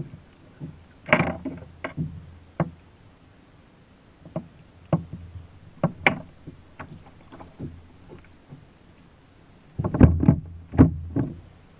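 Irregular knocks and thumps against a hollow plastic kayak hull, a dozen or so scattered sharp ones, then a quick run of heavier thumps near the end.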